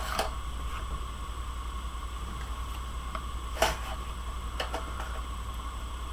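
Steady low hum with a faint steady higher tone, the background noise of a webcam microphone turned up high, broken by a few light clicks from handling paper and tools, the clearest about three and a half seconds in.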